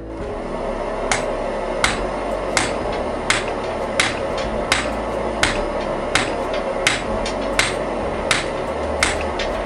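Blacksmith's hammer striking hot wrought iron on an anvil at a steady, even pace, about one blow every 0.7 seconds, over a steady background hiss.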